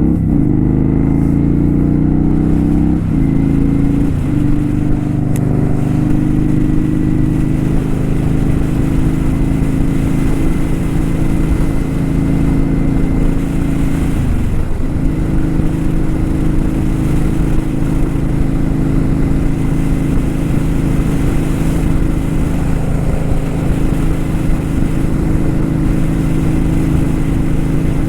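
Kawasaki Vulcan 900 Custom motorcycle's V-twin engine running steadily. Its note dips briefly and picks up again about three and four seconds in, and once more about halfway through.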